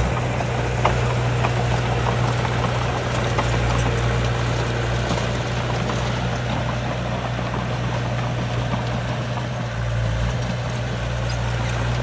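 Heavy diesel engine of earthmoving machinery running steadily at an even low pitch, with a few faint clicks and rattles over it.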